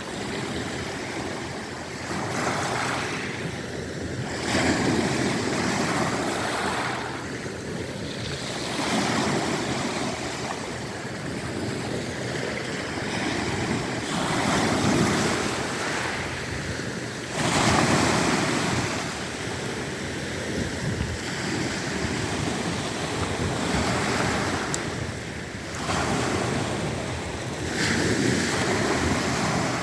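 Black Sea waves breaking, a continuous wash of surf that swells louder every two to three seconds as each wave comes in.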